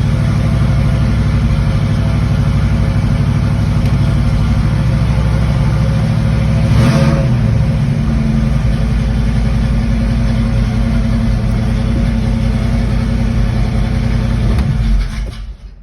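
Modified Pontiac 400 V8 idling steadily while still cold, with a short louder moment about seven seconds in. Near the end it stalls and cuts out suddenly, because it has not warmed up enough.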